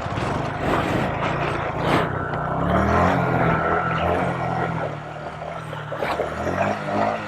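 Mini bike engine running and revving: the pitch rises and falls about two and a half seconds in, and climbs again near the end, with a couple of sharp knocks along the way.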